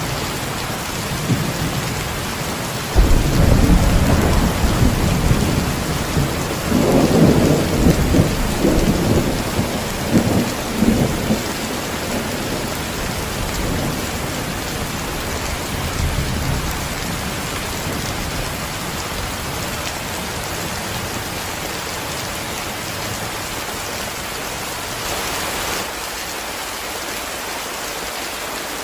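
Heavy, steady rain falling on leaves and ground. A low rumble of thunder starts suddenly about three seconds in, rolls on in a few swells, and dies away after about twelve seconds.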